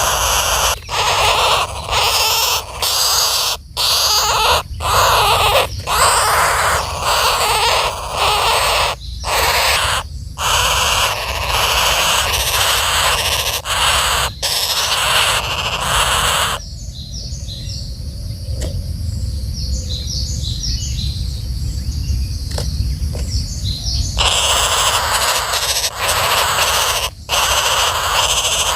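Flameback woodpeckers giving loud, harsh, raspy calls over and over, a reaction to their nest being opened up. About 17 seconds in, the calls drop away for several seconds to faint high chirps, then start again.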